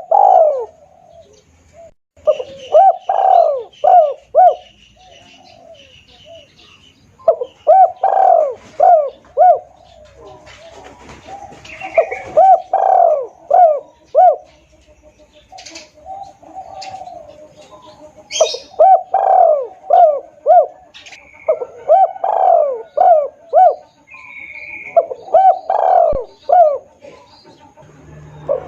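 Spotted dove (tekukur) cooing in repeated phrases, each a quick run of about five or six coos, used as a lure call.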